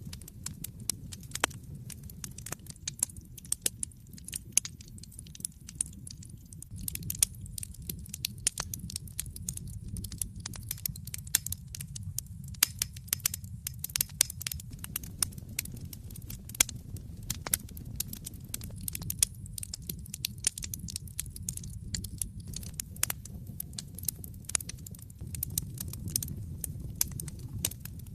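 Wood fire burning in a fireplace, crackling and popping: many irregular sharp pops, several a second with now and then a louder one, over a steady low rumble of the flames.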